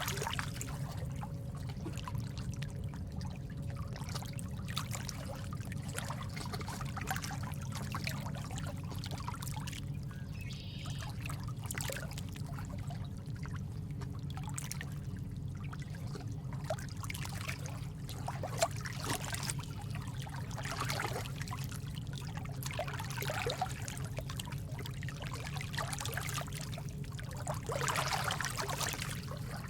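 Steady trickling and splashing of running water: a constant low rush with many small irregular drips and splashes on top.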